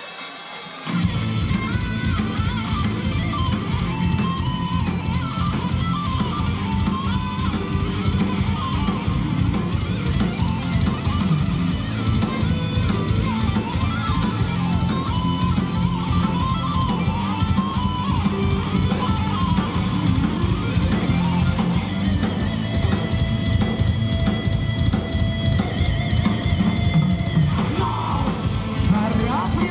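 Heavy metal band playing live: a lead electric guitar melody over a fast, driving drum kit and bass, with no singing. The drums and bass come in about a second in.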